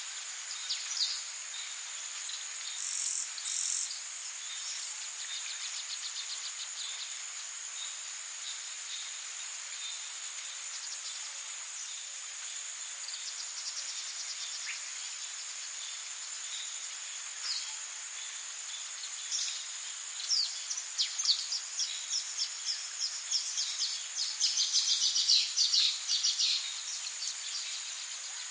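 Tropical rainforest ambience: a steady high-pitched insect drone over an even hiss, with scattered bird chirps. Two short loud high calls come about three seconds in, and quick chirps and trills grow thick in the last third.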